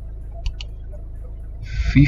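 Steady low hum with two quick clicks about half a second in, then a brief hiss near the end.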